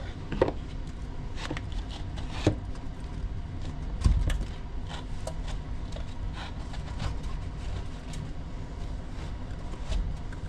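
Snow being scooped and packed into bowls by hand: scattered knocks and scrapes, the loudest about half a second, two and a half and four seconds in, over a steady low hum.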